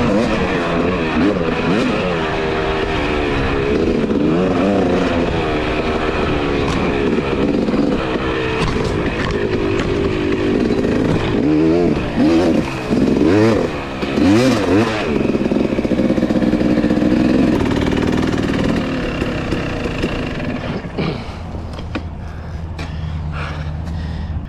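Two-stroke dirt bike engine revving up and down repeatedly while riding, then settling to a lower, steady note near the end.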